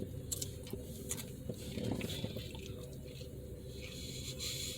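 Faint handling of a fast-food burger and its wrapper: small clicks and soft squishing sounds over a low steady hum.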